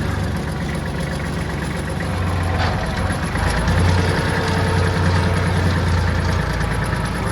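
Tractor engine running steadily, louder for a couple of seconds from about three and a half seconds in.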